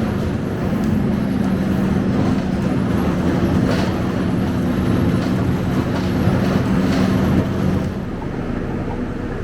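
Scania K270UB city bus heard from inside the cabin while moving: a steady engine drone with road noise and occasional light rattles, easing off in loudness near the end.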